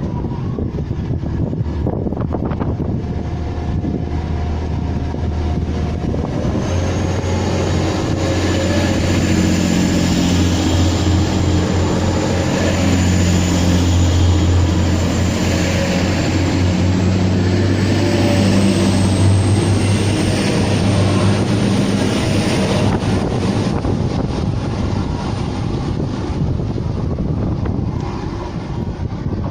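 A train running past, loud and sustained, with a low steady drone and a thin high whine that appears a few seconds in and slowly rises in pitch, then fades near the end.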